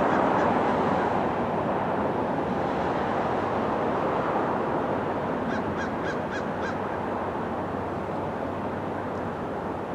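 A steady rushing noise, slowly fading, with a bird giving a quick run of about six short calls a little past halfway.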